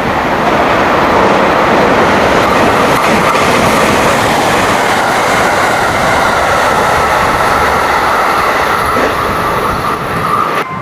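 A train moving along the platform at close range, its wheels and running gear making a loud, steady rumble. A thin, steady whine rises over it in the second half, and the sound cuts off abruptly near the end.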